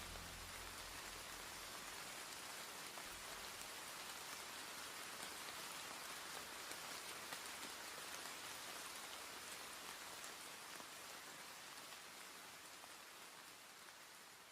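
Faint, steady rain falling on a surface, an even patter with no music over it, slowly fading toward the end.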